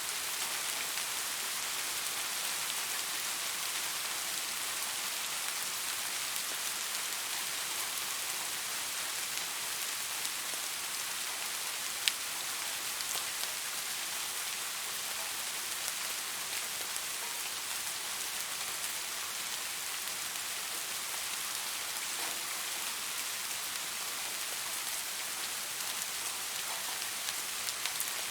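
Steady rain falling on leaves, an even hiss with scattered drop ticks, one sharp louder tick about twelve seconds in.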